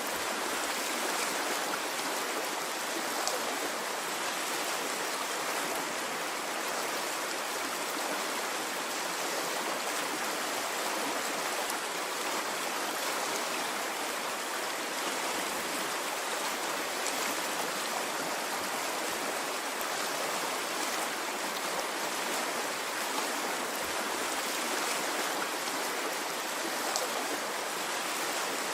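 Water running in a stream, a steady even rushing and babbling with no surges.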